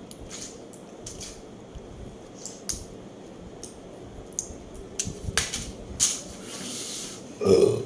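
Close-miked eating sounds: scattered crisp clicks and wet smacks of chewing, growing busier in the second half, with one louder burst near the end.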